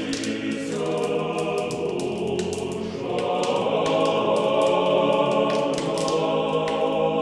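Closing music of a choir singing held, layered chords in a chant-like style, with many short sharp strikes over it, growing a little louder about three seconds in.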